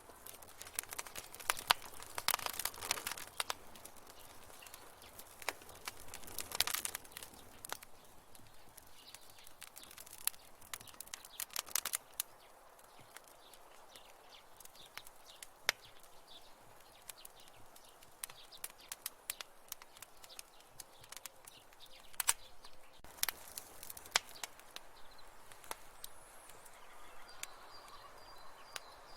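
Wood fire crackling in a fireplace: irregular sharp pops and snaps over a soft hiss, some coming in quick clusters.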